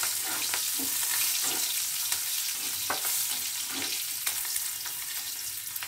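Green capsicum pieces sizzling in hot oil in a metal kadai, with a metal spatula now and then scraping and clicking against the pan as they are stirred.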